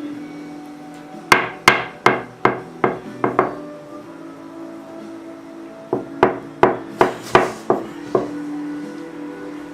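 A spoon banged on a table by a small child: two quick runs of about seven knocks each, roughly three a second, with a pause between them.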